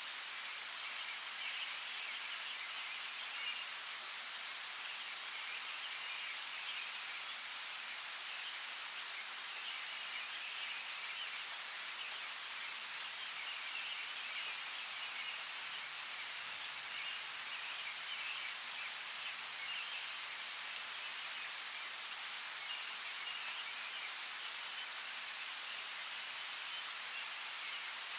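Steady rain falling, with a few sharp, louder drops, one about two seconds in and two more around halfway. A high chirping chorus comes and goes behind the rain.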